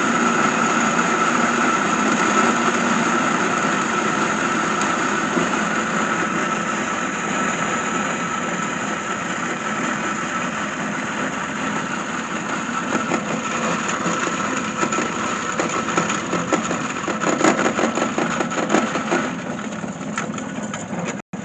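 Tractor engine running steadily, belt-driving a feed grinder that is grinding corn, with a steady whine over the machine noise and scattered ticks later on.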